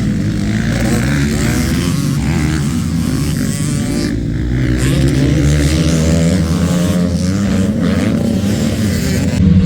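Motocross dirt bike engines revving on the track, their pitch rising and falling as the bikes accelerate and shift, with a louder surge near the end.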